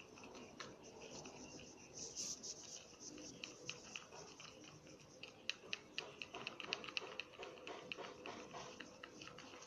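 A utensil stirring slime mixture in a container: faint irregular clicks and scrapes against the container's sides, turning into quicker, sharper taps about halfway through.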